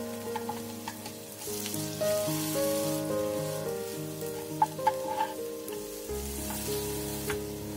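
Anchovy fritters sizzling in oil in a frying pan as they are turned with a metal spatula and chopsticks, with a few sharp clicks of the utensils against the pan about two thirds of the way in. Background music plays underneath.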